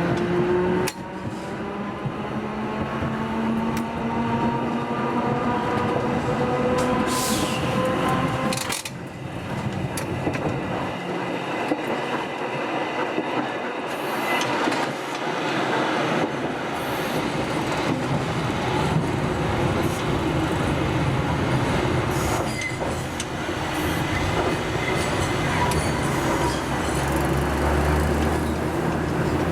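Hakodate City Tram type 500 streetcar under way: its traction motor whine climbs slowly in pitch for the first eight or nine seconds, then cuts off as power is shut off. After that the car coasts, with steady wheel-on-rail rumble and occasional clacks.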